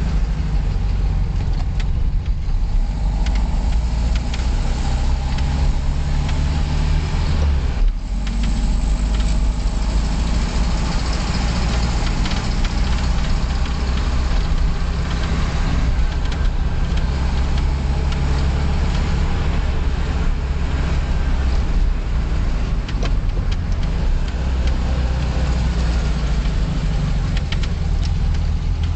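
Car engine running and road noise while driving at low speed, heard from inside the car, a steady low rumble. It dips briefly about eight seconds in.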